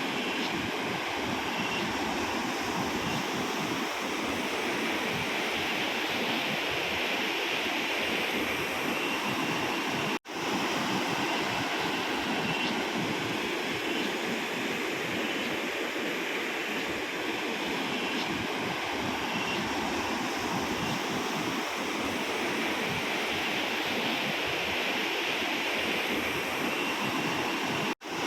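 Steady rush of swollen floodwater from continuous heavy rain, broken by two brief dropouts, one about ten seconds in and one near the end.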